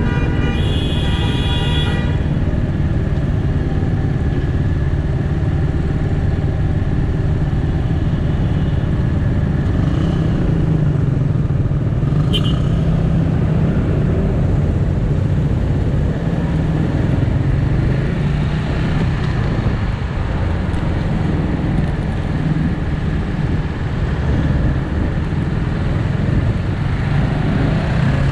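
Bristol 250 Classic motorcycle engine idling at a stop in traffic, a steady low rumble; a vehicle horn toots briefly at the start. Near the end the bike pulls away.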